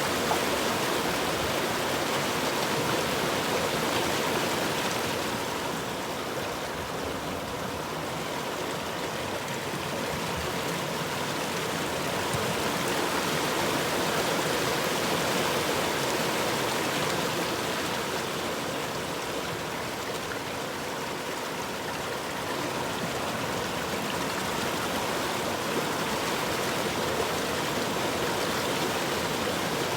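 A flowing stream or river rushing steadily, its noise swelling and easing slowly every several seconds.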